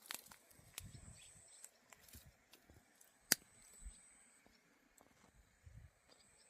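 Quiet forest ambience. Scattered light knocks and soft low thuds come through, with one sharp click a little past three seconds in. A thin, high insect whine comes and goes.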